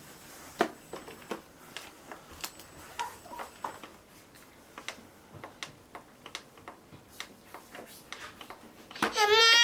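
Scattered light clicks and taps at an uneven pace. Near the end comes a loud, high, wavering cry or whine.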